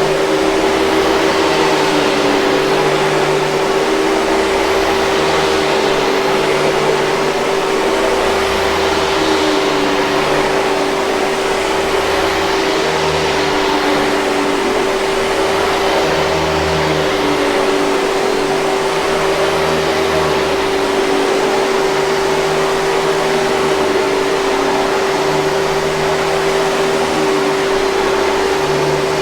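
Hoover 5000 Series canister vacuum cleaner running steadily, a motor whine held at one pitch over a wide rush of air.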